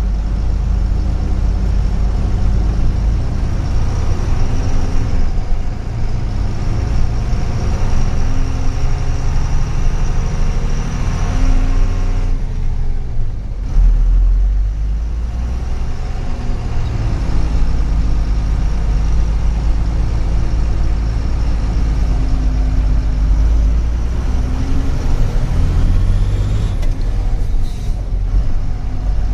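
Truck engine running under way, a steady low rumble whose pitch rises and falls as the engine speed changes, with a brief drop a little before the middle.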